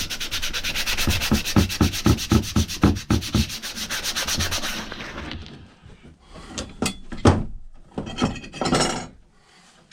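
Rapid back-and-forth hand scrubbing on a rusty axe head, about four strokes a second, stopping about five seconds in. A few light knocks and handling clatter follow.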